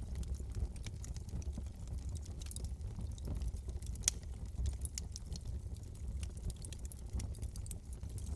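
Wood fire crackling in a fireplace: scattered sharp snaps and pops over a low steady rumble, with one louder snap about four seconds in.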